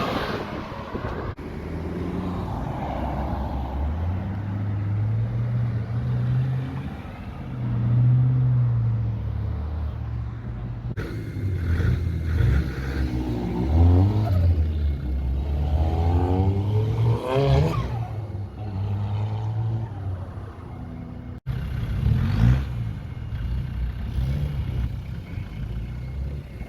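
Several cars, one after another, driving off with engines running and revving; in the middle a few sharp throttle blips rise and fall in pitch.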